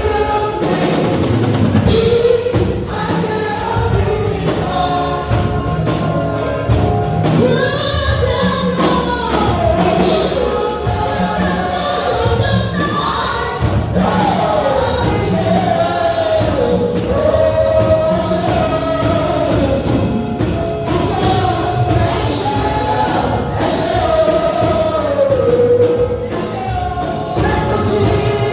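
Gospel praise music: a group of voices singing together over a drum kit.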